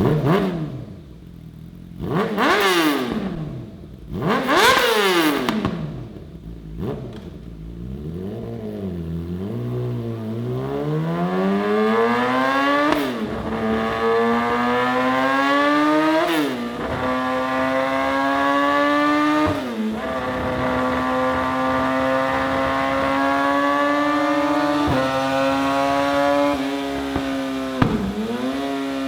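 Yamaha R6's inline-four breathing through a Yoshimura ALPHA-T full titanium exhaust: three quick, sharp rev blips, then the revs climb steadily and fall back sharply several times as the bike pulls up through the gears, ending on a high, steady note.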